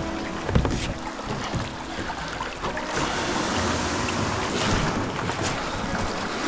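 Choppy waves splashing against a kayak's hull, with scattered sharper slaps and wind on the microphone.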